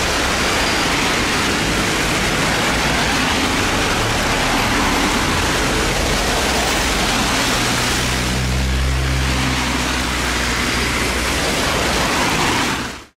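Loud, steady rushing of rain and wind, with a diesel locomotive's low engine hum coming up about eight to ten seconds in.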